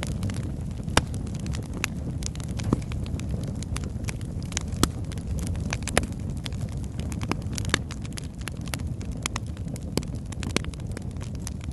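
Wood fire burning in a fireplace: a steady low rumble of flames with irregular crackles and sharp pops from the logs, several louder snaps scattered throughout.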